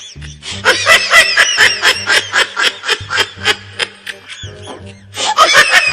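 High-pitched, rapid cackling laugh sound effect in quick pulses, coming in two bursts with a pause in the middle, over music with a low beat.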